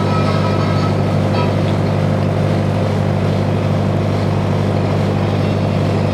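Sightseeing boat's engine running steadily at cruising speed, a constant low drone with a faint steady higher tone.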